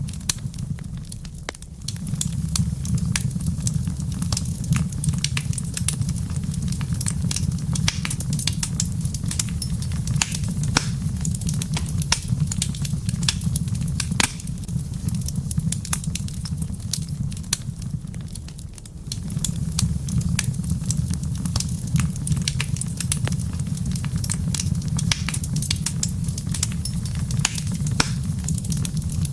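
Wood fire in a fireplace crackling, with many irregular sharp pops and snaps over a steady low rumble of the flames. The low rumble dips briefly twice, about a second in and near the middle.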